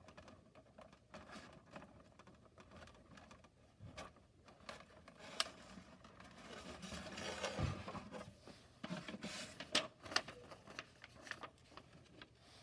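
Handling sounds of a cardboard and plastic playset being assembled: scattered clicks and taps of small parts, with a longer rustle of cardboard about six to eight seconds in.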